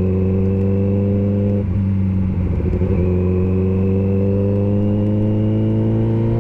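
Kawasaki sportbike's inline-four engine running under way at steady revs. The note breaks briefly under two seconds in, comes back a second or so later and then climbs slowly.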